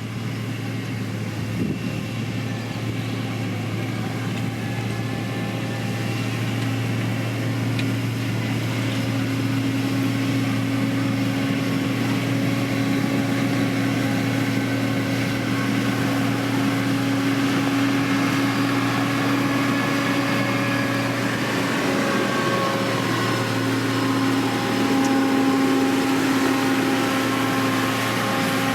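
Diesel engine of a heavy road-building machine running steadily, a low hum with a higher whining tone above it, growing gradually louder through the first half.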